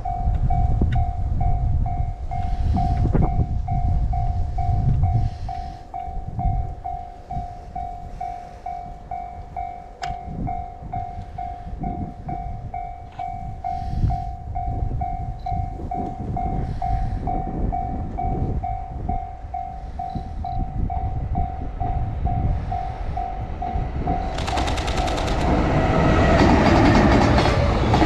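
Level-crossing warning bell ringing steadily at about two strokes a second. About 24 seconds in, a JR Freight EH500 electric locomotive hauling Koki container wagons reaches the spot and passes close by with a loud rush of wheel and rail noise.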